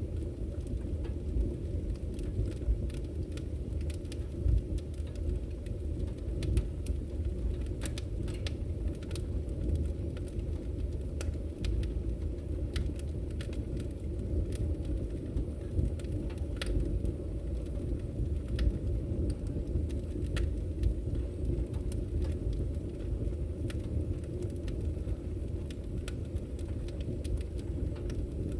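Wood fire burning in a fireplace: a steady low rumble of flame with scattered sharp crackles and pops.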